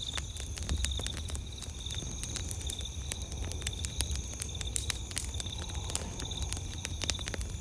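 Wood campfire crackling with frequent sharp pops, over a steady pulsing chirp of crickets or other night insects.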